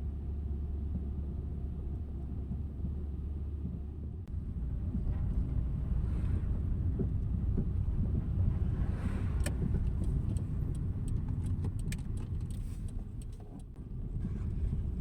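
Car on the move: steady low road and engine rumble, with a scatter of light clicks and jingling over the last several seconds.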